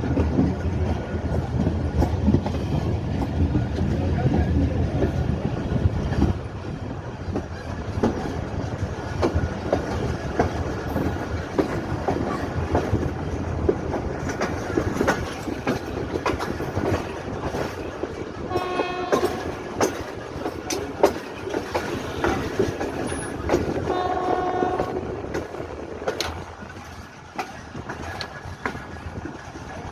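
Passenger train running with a steady rumble and the wheels clacking over rail joints, heard from aboard. A train horn sounds twice, each about a second long, roughly two-thirds of the way through, and the running noise eases off near the end.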